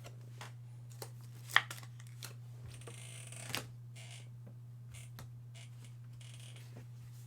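Baseball cards being handled and flipped through: soft slides and small clicks, with one sharper snap about a second and a half in. A steady low hum runs underneath.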